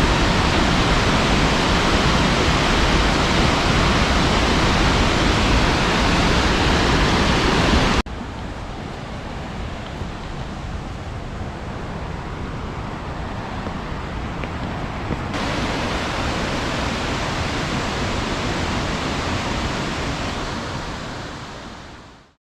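Steady rush of large waterfalls. It drops suddenly to a quieter level about eight seconds in, swells a little later, and fades out near the end.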